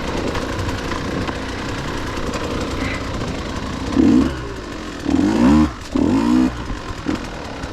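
Dirt bike engine running on a trail ride, with the throttle blipped in three short rev bursts about four, five and six seconds in.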